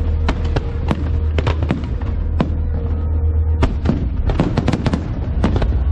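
Aerial fireworks bursting in a quick run of sharp bangs and crackles, densest about four to five seconds in, over a steady low rumble.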